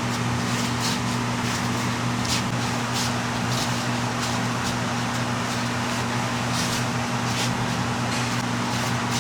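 Electric fan running with a steady hum, with light, irregular taps and clicks about once a second.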